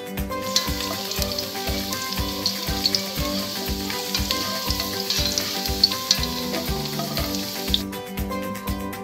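Chopped garlic frying in hot oil in a pan: a steady sizzle with sharp crackles, which stops abruptly near the end. Background music with a steady beat plays underneath.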